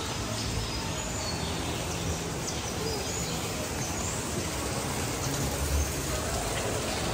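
Birds calling, with short faint chirps scattered through, over a steady outdoor background noise.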